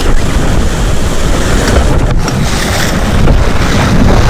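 Loud wind noise buffeting the microphone over the wash of sea surf, a steady rushing noise.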